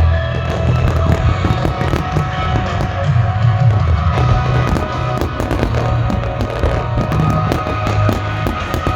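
Fireworks bursting and crackling in rapid, irregular pops over loud music.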